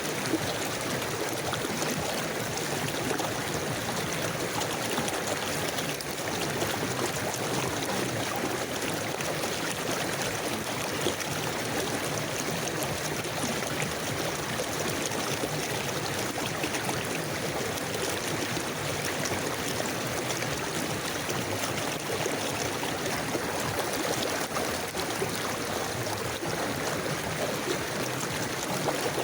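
River water flowing steadily over stones, a continuous rushing with small gurgles.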